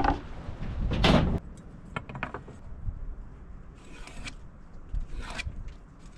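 Wood being handled and worked: several separate scrapes, the loudest about a second in, with a few small knocks and clicks between them.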